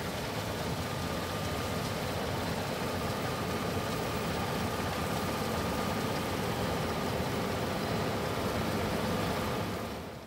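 Claas Lexion 770 TT combine harvester running steadily, a constant noisy machine sound with a faint whine, through a soybean harvest.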